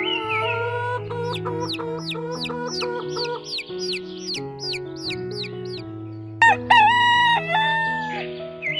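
A rooster crowing loudly once, about two-thirds of the way through, over steady background music. Before it comes a run of quick, repeated, high falling chirps, about four a second.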